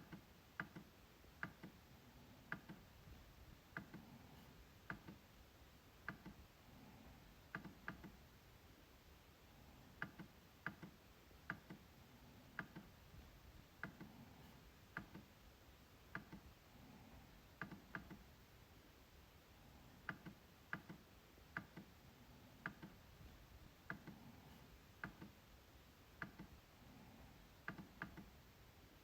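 MacBook trackpad being clicked, quiet, sharp clicks at uneven intervals, often two in quick succession like double-clicks.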